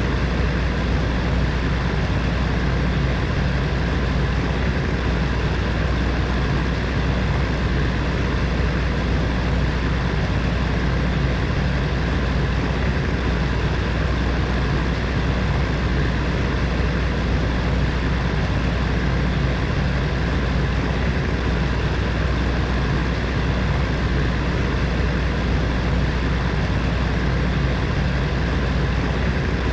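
Heater fan running steadily: an even whooshing of air over a constant low hum, with a few faint steady tones above it.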